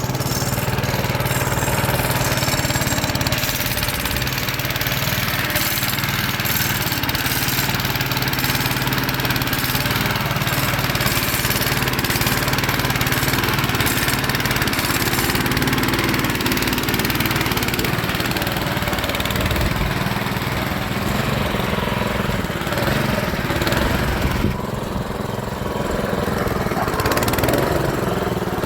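Small engine of a self-propelled boat trailer running steadily, with a change in its sound a little after three-quarters of the way through.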